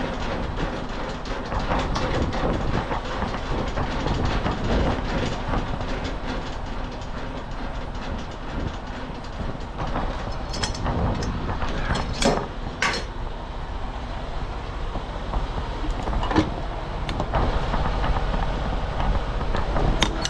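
Semi truck's diesel engine running with rattling and clatter, heard from inside the cab as the rig moves. There are a few sharp clicks or knocks about halfway through and again near the end.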